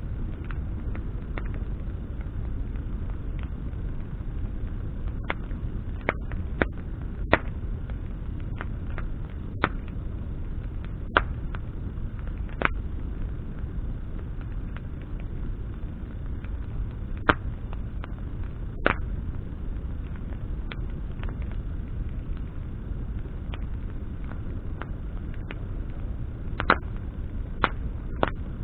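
Bonfire of branches burning and crackling: sharp pops at irregular intervals, about a dozen of them, over a steady low rumble.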